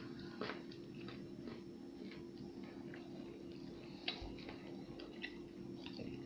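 Someone chewing Milka chocolate with whole almonds: small irregular crunches and clicks as the almonds are bitten through, over a steady low hum.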